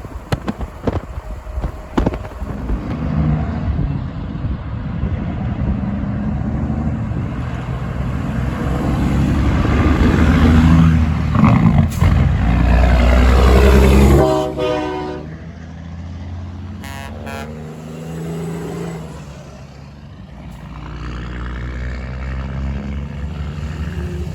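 Heavy truck approaching and passing close by, its engine and tyres growing louder to a peak about fourteen seconds in, then falling in pitch and dropping away quickly. A quieter vehicle passes afterwards.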